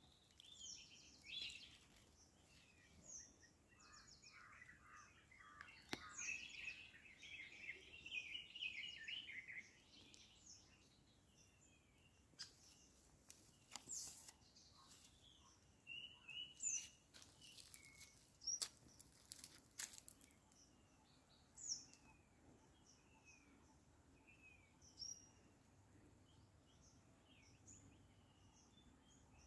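Wild birds chirping and calling in scattered short phrases over a quiet background, with a busier run of rapid chirps a few seconds in. A few sharp clicks sound among the calls.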